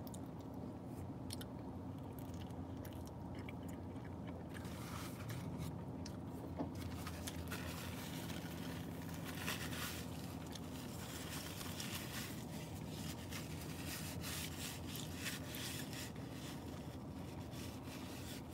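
Close-up eating sounds: a person biting and chewing food, with many small crunching, smacking clicks from about five seconds in, over a steady low hum.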